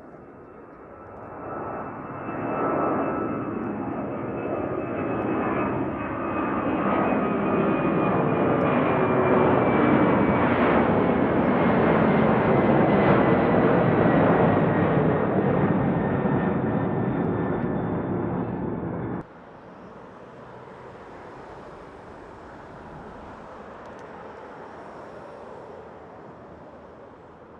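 Boeing 767-300F jet engines passing close and loud, growing over the first few seconds, with a high whine that slowly falls in pitch. It cuts off abruptly about two-thirds of the way through, leaving a much quieter, distant jet noise.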